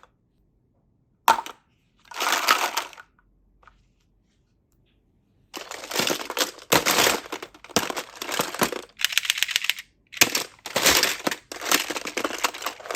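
Slime being squeezed and pressed by hand: a short click and a brief crackling squish near the start, then from about halfway a run of crackling, crinkly squishes, one every half second to a second.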